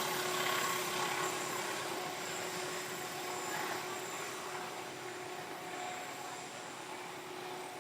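Steady mechanical running noise of a vehicle, with a constant hum, slowly fading.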